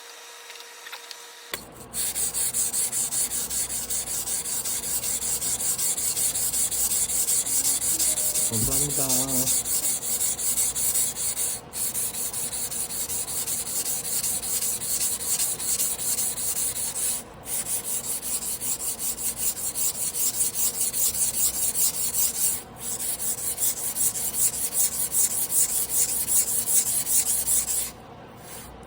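A carbon-steel Damascus sashimi knife blade being ground by hand on a whetstone: rapid, even rasping strokes in runs broken by short pauses about every five to six seconds.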